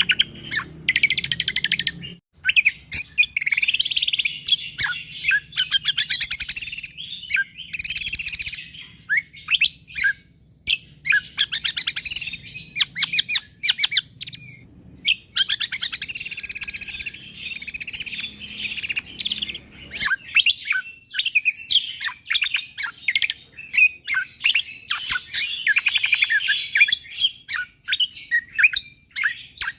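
Cucak kombo (kecial kombo) songbird singing in full voice: long, dense runs of rapid, high, sharp chirps, in phrases broken by brief pauses.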